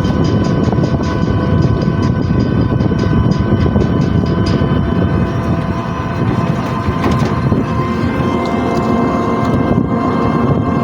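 A vehicle running steadily: a continuous low rumble of engine and road noise with a few steady whining tones over it.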